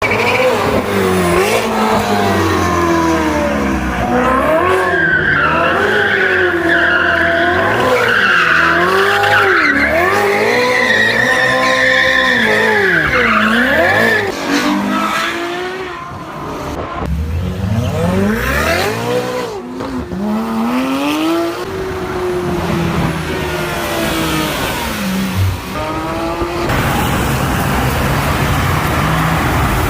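Sports car engines revving hard again and again, the pitch climbing and dropping with each rev, until the revving gives way to a steadier noise near the end.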